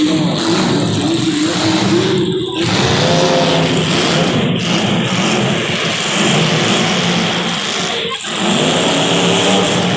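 Several small race-car engines running together on track, their pitch rising and falling as the cars accelerate and back off.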